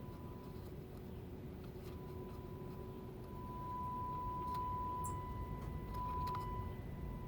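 A steady, high-pitched single test tone, the signal generator's audio modulation coming through the tube radio, growing louder about three seconds in as the set is adjusted. Underneath it is a low hum, with a few faint clicks.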